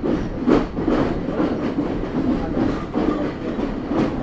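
Sri Lanka Railways Class S9 diesel multiple unit running along the line, heard from aboard at an open window: a steady wheel-on-rail rumble with repeated clacks as the wheels cross rail joints.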